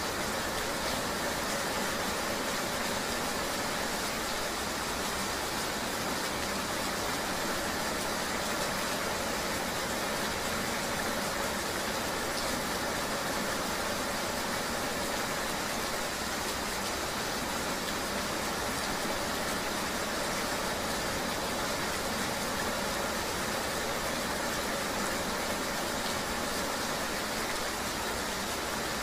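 Steady ride-in-the-rain ambience: an even hiss of rain with a vehicle's running drone underneath, unchanging throughout.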